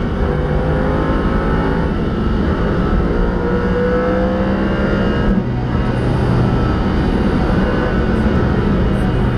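Car engine accelerating hard, heard from inside the cabin: its pitch climbs steadily for about five seconds, drops briefly about five seconds in, then pulls again.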